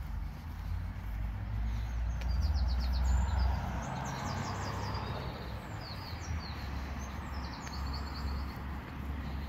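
Songbirds singing in quick high trills of rapidly repeated notes, over a low outdoor rumble that is loudest two to four seconds in.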